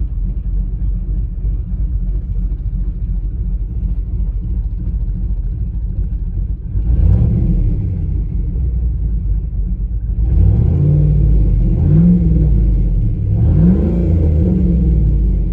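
2004 GMC Yukon's 5.3-litre V8 with a Truck Norris camshaft, on the stock exhaust, idling with a steady rumble, then revved several times in the second half, the pitch rising and falling with each blip of the throttle.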